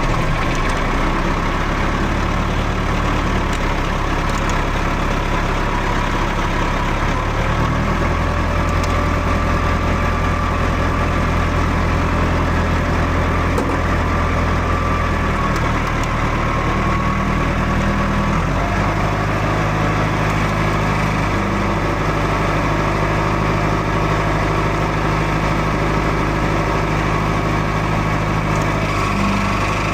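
John Deere tractor engine running steadily while towing another tractor, its note shifting several times as load or throttle changes.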